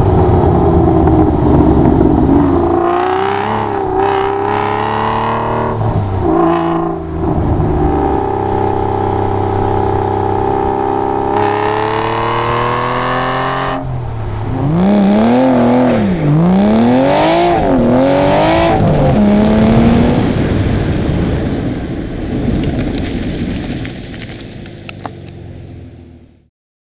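High-performance car engine revving. It holds steady revs for a few seconds, climbs, then rises and falls in a run of quick throttle blips before fading away near the end.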